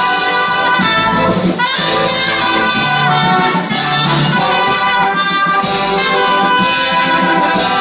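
Live band playing an instrumental passage, with a brass section of trumpets and horns carrying the melody in sustained notes over the accompaniment.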